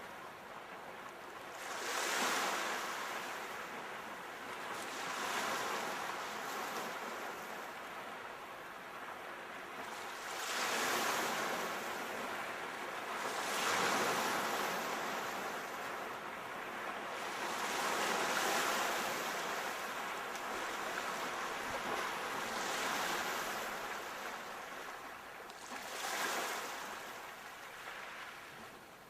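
Sea waves breaking and washing in, a steady hiss of surf that swells with each wave every few seconds.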